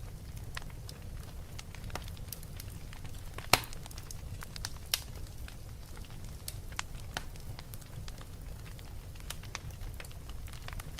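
Wood fire burning in a fireplace: a steady low rumble of flames with scattered crackles, and a sharp pop about three and a half seconds in.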